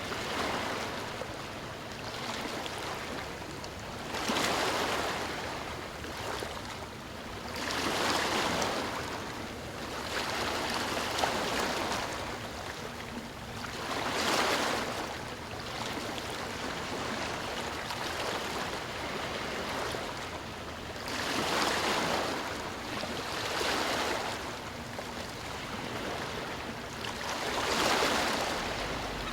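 Ocean surf: waves breaking and washing in, each one a slow surge of rushing noise that rises and falls about every four to six seconds.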